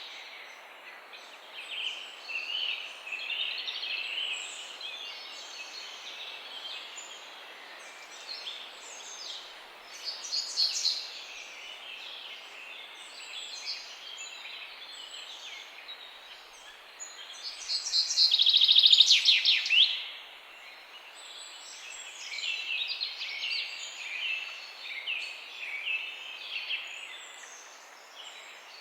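Several songbirds chirping and singing over a steady faint background hiss. The calls come as scattered short chirps and trills, with one loud, fast trill about two-thirds of the way through.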